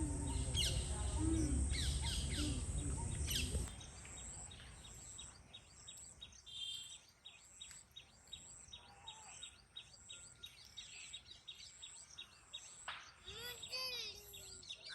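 Small birds chirping and calling outdoors, in short scattered chirps and gliding calls. For the first few seconds a louder low rumble and voices lie under them, then these cut off abruptly about four seconds in.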